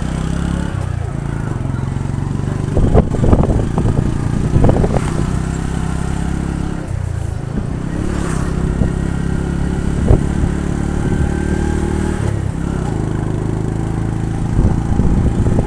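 Small motorcycle engine running under way, its note shifting a few times with the throttle, with louder knocks and clatter about three to five seconds in and again briefly later.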